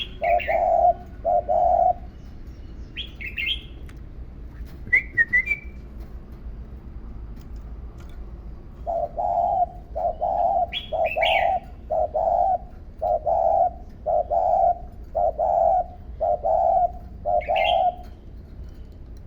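A bird coos in an even series of low notes: three near the start, then about nine in a row from about nine seconds in. Another bird chirps briefly and higher a handful of times in between.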